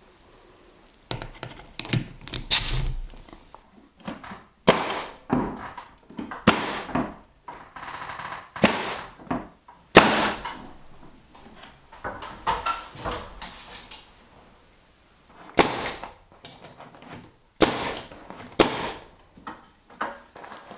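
Tongue-and-groove pine boards being fastened and knocked into place: a run of about fifteen sharp bangs at uneven spacing, each ringing briefly in the room.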